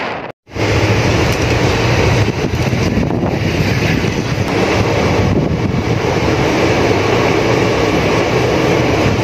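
Indian passenger train running, heard from its coach: a loud, steady rumble of the wheels on the track, with wind on the microphone. The sound drops out briefly just after the start.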